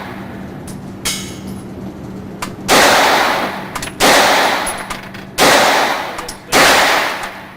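9mm gunshots fired one at a time at a steady pace, about 1.3 seconds apart: four loud reports, each with a long echoing tail. A fainter report sounds about a second in, with a steady low hum underneath.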